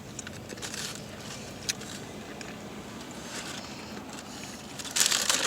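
A person chewing a mouthful of McDouble hamburger close to the microphone, with small wet clicks and smacks. A louder, short crackly burst comes near the end.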